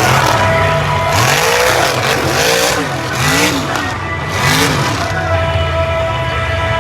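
Monster truck engine revving hard, the pitch swinging up and back down about five times in quick succession. A steady high tone runs underneath.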